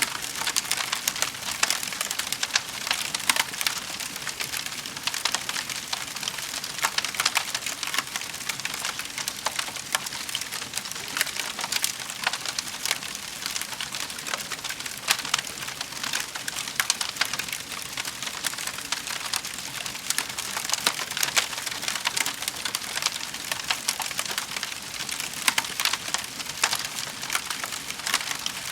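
Wood fire in a fireplace crackling, a constant dense patter of small sharp pops and snaps over a soft hiss.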